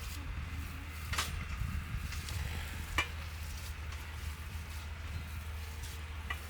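Stuffed meat rolls sizzling in a pan over a wood fire, with three sharp clicks: about a second in, about three seconds in, and near the end.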